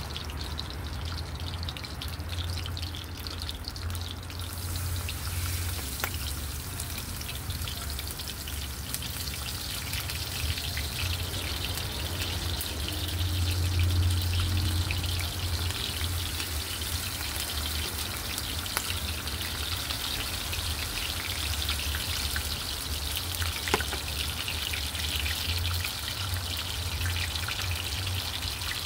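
Food frying in oil in a cast iron skillet: a steady crackling sizzle that thickens and grows brighter about four or five seconds in, with a couple of sharp pops. A steady low hum runs underneath.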